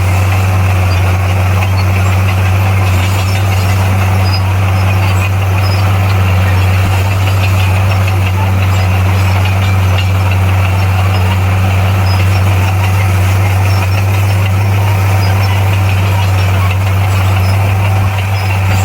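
Bulldozer's diesel engine running steadily with a deep, constant hum and mechanical clatter, without revving up or down.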